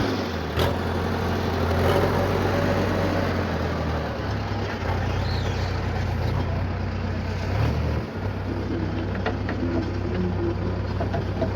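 Heavy diesel machinery engine running steadily under load at a loading site, with a low drone whose pitch shifts a little a few times.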